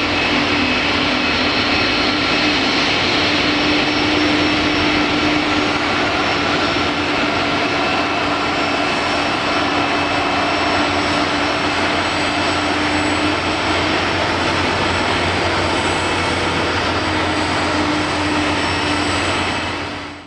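Boeing 747-400F freighter's four jet engines running, a steady loud rumble with a held whine over it; the sound cuts off abruptly at the end.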